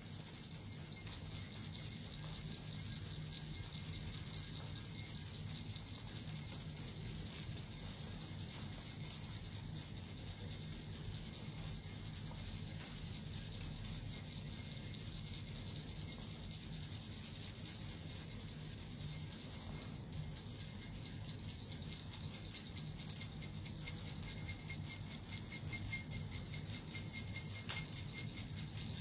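Small Japanese bells (suzu) and a metal rattle shaken continuously, giving a steady, dense high jingling without pause.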